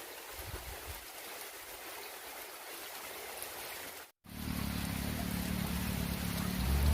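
Heavy rain falling, a steady hiss. About four seconds in it cuts out for a moment and comes back louder, with a low rumble under it.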